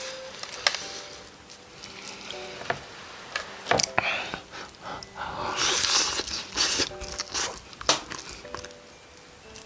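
Close-miked eating sounds: crisp crunching, chewing and sharp mouth clicks, with a longer, louder crackly crunch about five to six seconds in.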